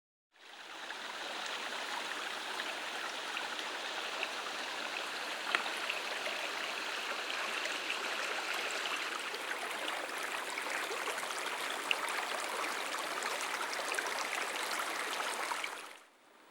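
Steady rush of water pouring over a waterfall and running down the creek, with a few faint clicks. It fades in right at the start and cuts off about a second before the end.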